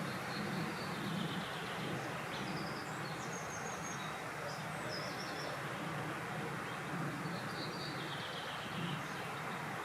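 Steady rushing wind, with small birds chirping and trilling in short high phrases several times.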